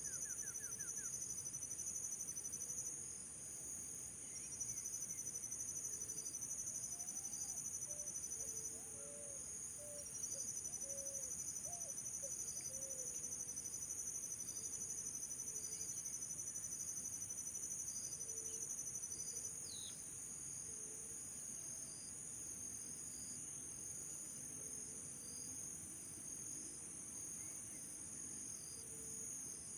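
Insect chorus with crickets: a steady high-pitched drone, with a fast cricket trill laid over it in long runs that break off and restart, then stops about two-thirds of the way through. Faint short low chirping calls sound beneath it.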